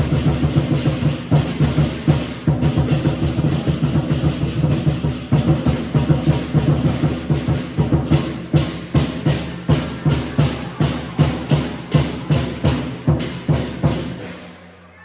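Lion dance percussion: large drum with crashing cymbals playing a fast, dense rhythm, which settles into even, accented strokes about twice a second in the second half and stops just before the end.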